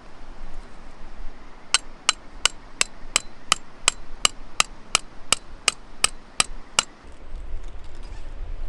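A steady run of about fifteen sharp strikes, roughly three a second, each with a slight ring, starting a couple of seconds in and stopping near the end.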